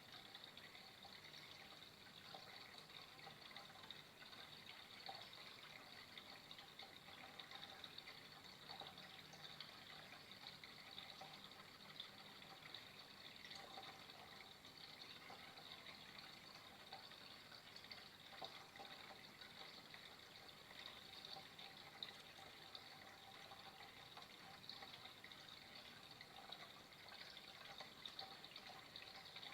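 Faint, steady sound of flowing water, running on without a break.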